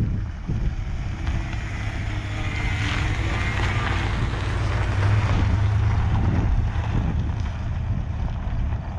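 Pickup truck engine running steadily with a low drone, with wind noise on the microphone.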